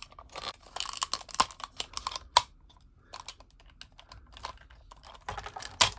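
Hard plastic parts of a Tomy King Elephant transforming robot toy clicking and clacking as they are handled and snapped into place, in quick clusters of clicks with a quieter stretch in the middle.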